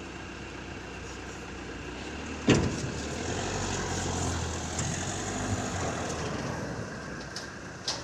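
A vehicle engine running at low speed, its rumble swelling for a few seconds mid-way, with one loud metallic clunk about two and a half seconds in and a smaller click near the end.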